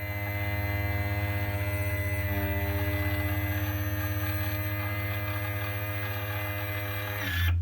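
Electric power trim and tilt motor of a Yamaha outboard (part 65W-43880) running with a steady hum under test, driving the motor up. Near the end its pitch drops and it cuts off.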